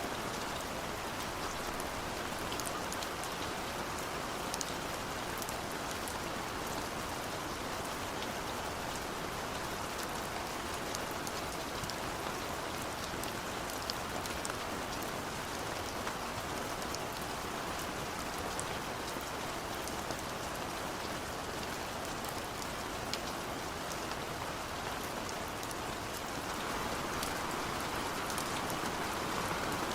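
Steady rain: a dense, even hiss dotted with small drop ticks, growing a little louder near the end.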